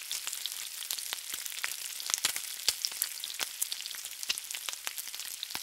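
Food frying in hot oil: a steady sizzling hiss with many small irregular crackles and pops.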